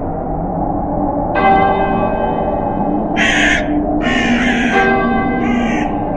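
Church bell tolls once a little over a second in and rings on, then a crow caws several times from about three seconds in, over a steady low wind.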